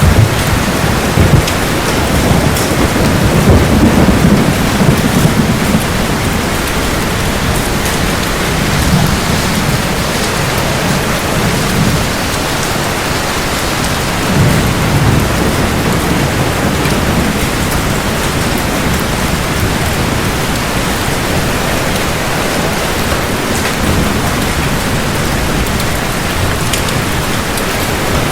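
Steady heavy rain with rolling thunder: a long low rumble in the first six seconds and another about halfway through.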